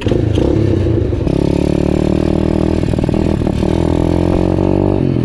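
125cc pit bike's single-cylinder engine running as the bike is ridden, settling into a steady, held note about a second in and changing abruptly near the end. It bogs a little, which the rider puts down to the carburettor, still on choke.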